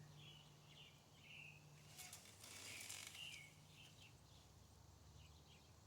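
Faint, short, high bird chirps, with a brief soft hiss about two seconds in.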